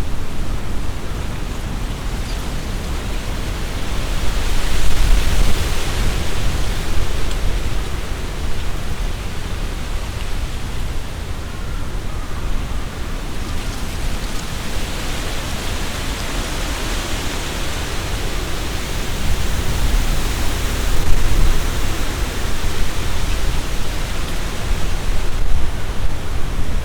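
Strong wind gusting through trees, the leaves rustling in two long surges, a few seconds in and again past the middle. A deep rumble of wind buffeting the microphone runs underneath.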